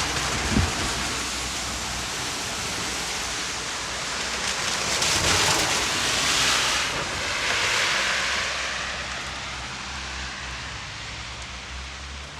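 Steady rain falling, an even hiss. Just after the start there is a short low knock. In the middle the hiss swells louder for a few seconds and then eases off.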